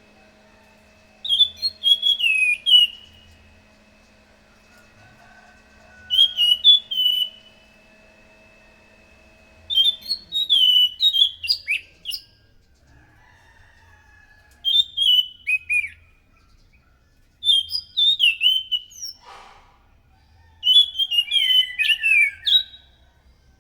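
Anis macan thrush singing: short phrases of rapid, warbling whistled notes, six of them, each a second or two long with a few seconds' pause between. A faint steady hum underneath stops about halfway through.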